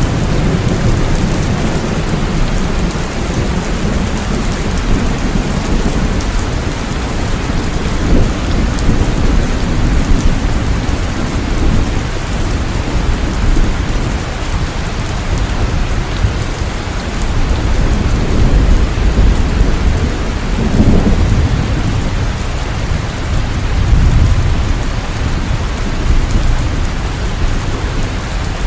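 Steady rainfall as a dense, even hiss, with low rumbles that swell and fade several times.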